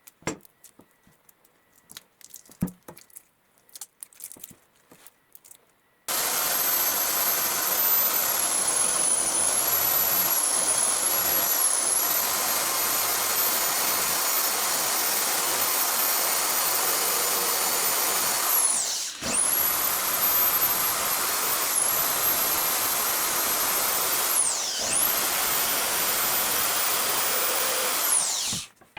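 A few light taps and clicks, then a high-speed power tool switches on about six seconds in and runs loudly with a high whine. Its pitch sags briefly three times, as if it is being pressed into the work, and it stops just before the end.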